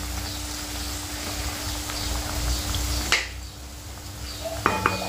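Manchurian balls deep-frying in hot oil: a steady sizzle over a low hum, with a sharp click about three seconds in.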